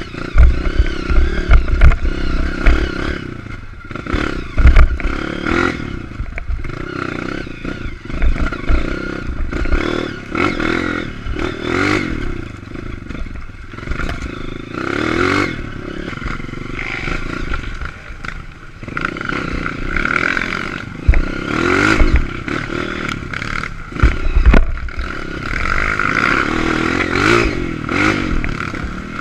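Honda CRF230 dirt bike's single-cylinder four-stroke engine revving up and down over and over while riding a trail, with frequent knocks, thumps and rattling as the bike goes over rough ground.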